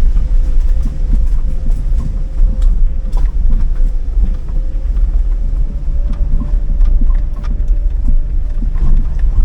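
Strong wind buffeting the microphone: a loud, continuous low rumble that surges and eases, with a faint steady hum underneath.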